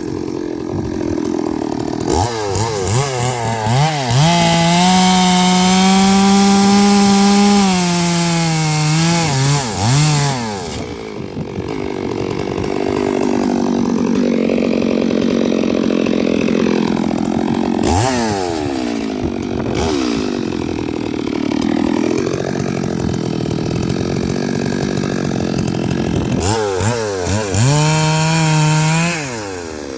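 Stihl MS 382 two-stroke chainsaw cutting eucalyptus logs. It is revved to a high, steady pitch for several seconds about two seconds in, runs at a lower, wavering pitch through the middle, and is revved high again near the end.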